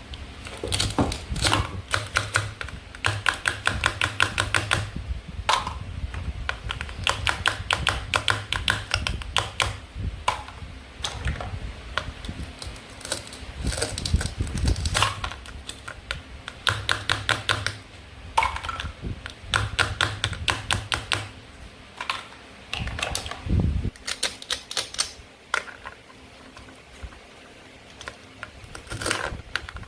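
Toy play food being cut with a toy knife: runs of rapid sharp clicks, each lasting a second or more, broken by short pauses and a few low thuds.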